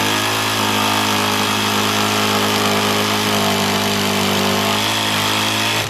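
Onevan jigsaw running steadily with its swing (pendulum) action on, pushed hard into the cut. It stops abruptly at the end. It is cutting very slowly because the swing action is not working.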